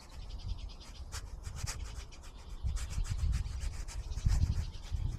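Watercolour brush scrubbing and scratching in short strokes across rough-press paper, dry brushing. An uneven low rumble runs underneath and swells twice in the second half.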